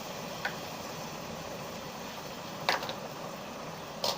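Steady sizzling of chopped tomatoes and onions frying inside an electric kettle, with three light metallic clinks, like a spoon touching the kettle, about half a second in, near the middle, and at the end.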